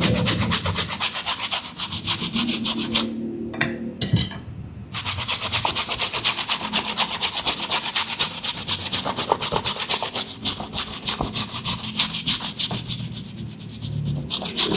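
A stiff brush scrubbing a sneaker in rapid back-and-forth strokes, with a short pause about three seconds in.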